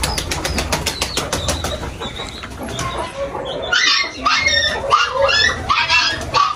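Birds in a loft of nest boxes: rapid, even wing-flapping for about the first two seconds, then a string of short high cries that rise and fall.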